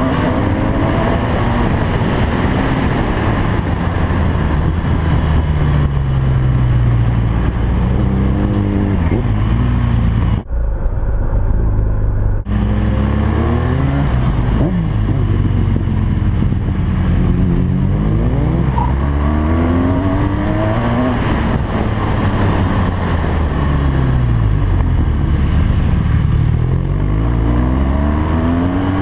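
BMW R1200GS LC boxer-twin motorcycle engine under hard racing use, its pitch climbing and dropping repeatedly through gear changes and braking. Steady wind rush runs over it, and the wind cuts out briefly about ten seconds in.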